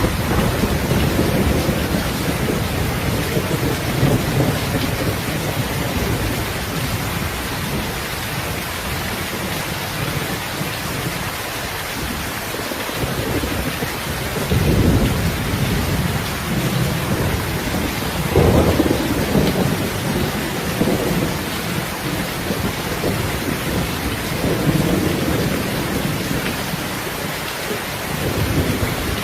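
Steady rain falling, with several low rumbles that swell and fade, the strongest about two-thirds of the way through.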